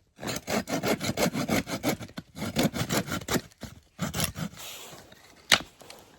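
Hand saw cutting wood in quick back-and-forth strokes, about four a second, pausing briefly and then giving a few more strokes; a single sharp click near the end.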